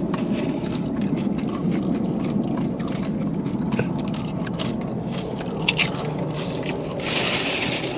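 Close-up chewing and crunching of tortilla-chip nachos, with many small sharp crackles. About seven seconds in, a plastic bag starts to rustle.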